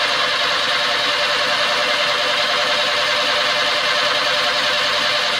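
Air-cooled VW bus flat-four engine cranking on the starter with a steady, even cadence. All four cylinders give equal compression pulses with no fast spot, the sign of good compression and working valves in every cylinder.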